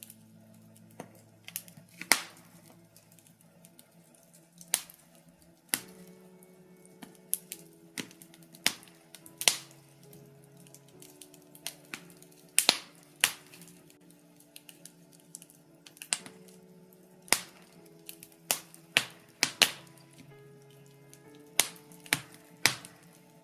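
Wood fire crackling, with sharp, irregular pops about once or twice a second, over soft sustained music whose chords change every few seconds.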